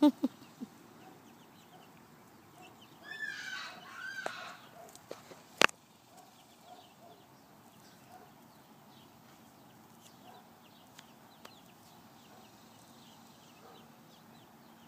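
Young chickens clucking and cheeping softly, with a louder run of squawking calls about three seconds in. A few thumps come at the very start and one sharp click a couple of seconds after the calls.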